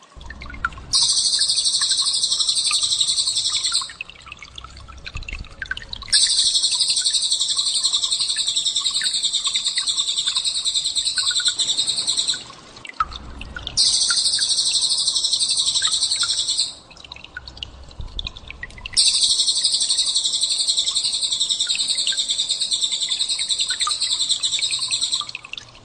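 Recorded songbird 'tembakan' calls for shama training. Four long runs of rapid, very high-pitched trilling, each several seconds long, with quieter stretches of faint chirping between them.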